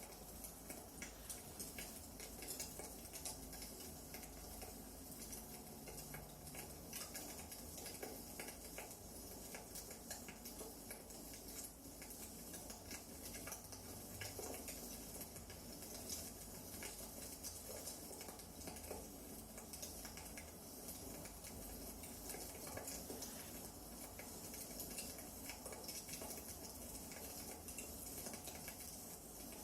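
Wood fire crackling in a fireplace: irregular small pops and snaps over a soft steady hiss.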